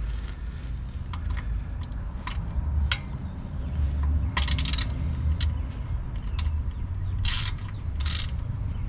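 A ratchet wrench worked in short runs on the car's transmission plug: scattered sharp clicks and three brief rasping bursts of ratcheting, over a steady low rumble.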